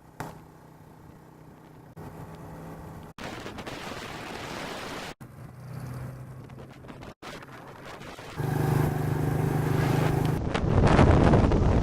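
Motorbike engine running with a steady low hum, heard across several short clips that cut abruptly, loudest about two-thirds of the way through. Wind buffets the microphone near the end.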